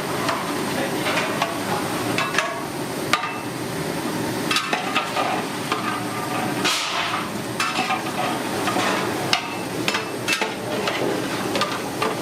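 Food frying and sizzling in hot oil, with irregular metal clanks and knocks from utensils working the pot. A short, louder hiss rises just past the middle.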